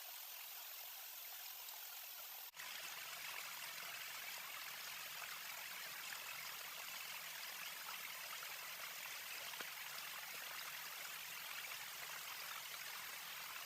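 Water running steadily, like a stream or flowing water. It breaks off for an instant about two and a half seconds in, then carries on slightly louder.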